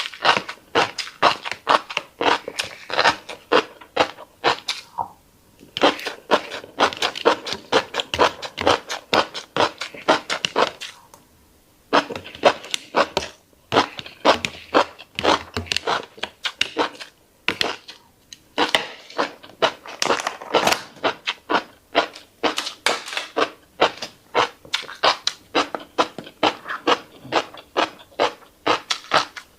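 Close-miked chewing of a mouthful of fish roe: a fast run of wet clicks and pops, broken by several short pauses.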